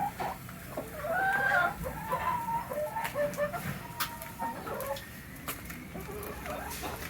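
Chickens clucking and calling, with a run of louder, wavering calls about a second in and quieter clucks after.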